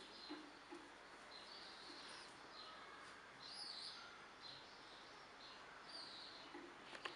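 Near silence, with faint short high chirps now and then, like small birds calling, and a brief click near the end.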